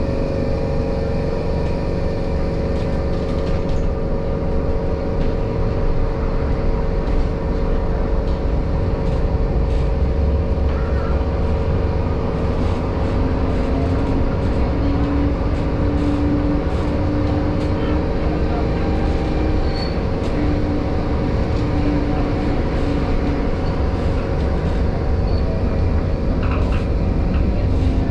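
Tram in motion: a steady low rumble of wheels on rails under the steady hum of its electric drive, with a second, lower whine coming in about halfway through.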